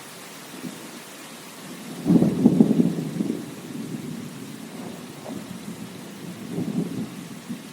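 Steady rain with thunder: a loud rumble about two seconds in that dies away over a second or so, and a smaller roll near the end.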